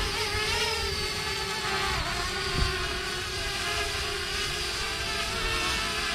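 Parrot Bebop 2 quadcopter's propellers whining in flight: a steady multi-tone buzz whose pitches waver slightly as the motors adjust, over wind rumble on the microphone. A brief thump about two and a half seconds in.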